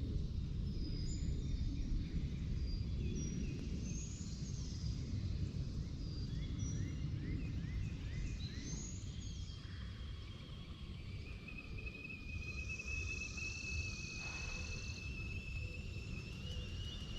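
Evening outdoor ambience: small birds chirping and whistling repeatedly over a low, steady wind rumble on the microphone. About two-thirds of the way through, a steady high-pitched drone starts and keeps going.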